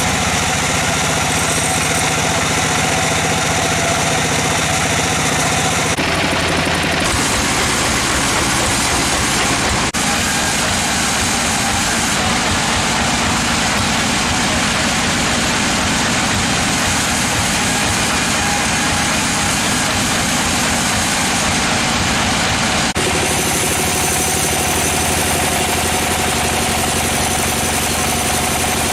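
Engine-driven sawmill machinery running steadily, the sound changing abruptly a few times.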